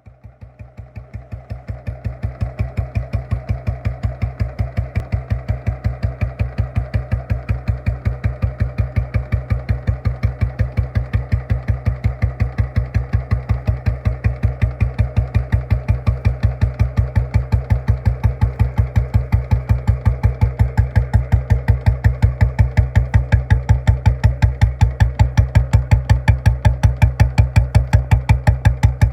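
Royal Enfield Bullet single-cylinder motorcycle idling with a very loud, even exhaust thump at about four beats a second. It swells over the first couple of seconds, then holds steady.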